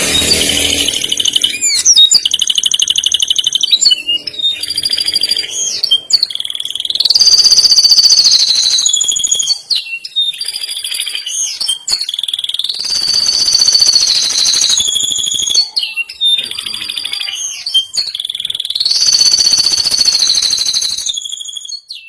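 Male canary singing long, rapid high-pitched trills, phrase after phrase at different pitches, linked by short sweeping notes; the song stops near the end.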